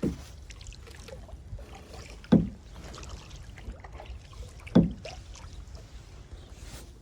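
Kayak being paddled: three strong low thumps about two and a half seconds apart, one with each paddle stroke, over a steady low wash of noise.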